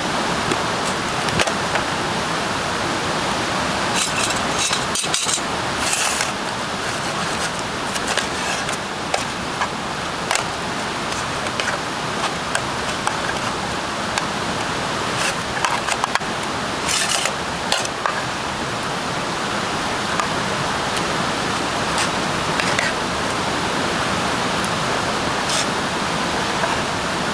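Wood campfire burning with a steady hiss and scattered sharp crackles and pops, a few clustered together.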